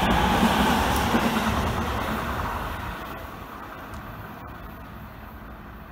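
Seibu 10000 series electric limited express train passing and receding, its running noise on the rails fading steadily over the first three seconds and then lingering faintly.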